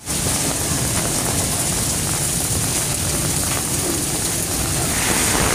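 Heavy monsoon downpour: rain pouring hard in a steady, even hiss.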